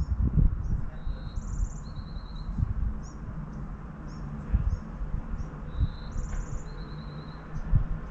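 Small birds outside singing, with many short high chirps and several rapid trills, over a low, uneven rumble.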